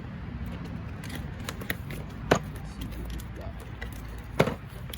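A new slide hammer kit being unboxed: packaging handled, with two sharp clicks or knocks, one a little over two seconds in and one near the end, over a steady low background hum.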